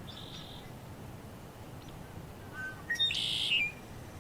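Songbirds calling: a short high call near the start, a few faint chirps, then a louder call about three seconds in, over a faint steady background hiss.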